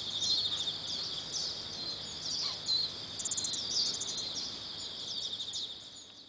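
A dense, steady chorus of insects pulsing in a high band, with many short, high chirps sweeping downward over it throughout.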